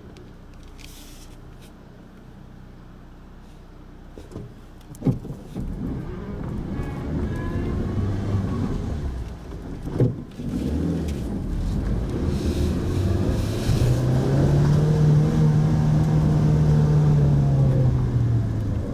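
Mitsubishi Pajero Mini's engine heard from inside the car as it drives, with two sharp knocks about five and ten seconds in. From about twelve seconds in the engine note rises and gets louder, holds, then eases off near the end.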